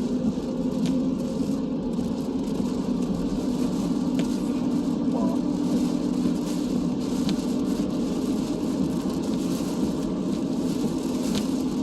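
Steady road noise heard from inside a moving car: tyres and engine droning evenly, with a few faint ticks.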